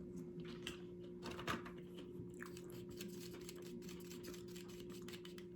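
Faint chewing and crunching of nacho tortilla chips, with small scattered clicks and mouth sounds, the strongest about a second and a half in. A low steady hum runs underneath.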